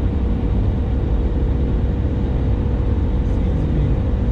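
Steady low rumble of a truck's cabin on the move, road and engine noise, with a faint steady hum.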